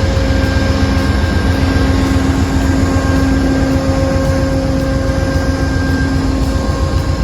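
GE P42DC diesel locomotive's 16-cylinder engine idling while stopped, a steady deep rumble with an even hum over it.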